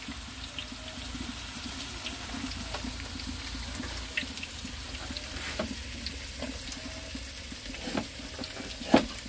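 Food frying in hot oil: a steady sizzle with scattered small pops, and a couple of sharper knocks near the end.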